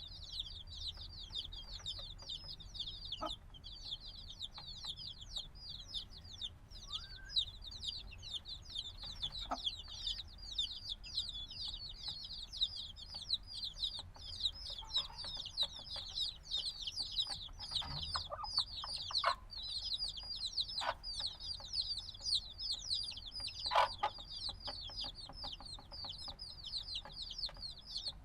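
A brood of chicks a few days old peeping nonstop, a dense overlapping chorus of short, high, falling chirps. A few short taps break in here and there.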